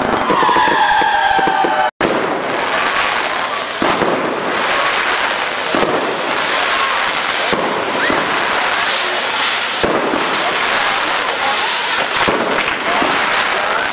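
Fireworks from a Mexican castillo fireworks tower. For the first two seconds, whistling fireworks sound with wavering pitch. After a sudden cut, the tower's burning top gives a dense, continuous crackle of sparks with scattered pops and bangs.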